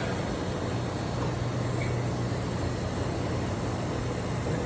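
Steady machine hum: a constant low tone over an even rushing noise, unchanging throughout.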